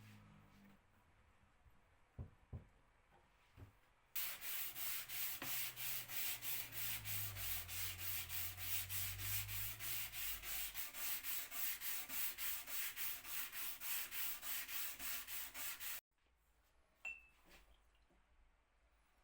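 Hand sanding a wooden tabletop: quick back-and-forth rubbing strokes, about three or four a second, starting about four seconds in and stopping abruptly near the end. Two light knocks come before it.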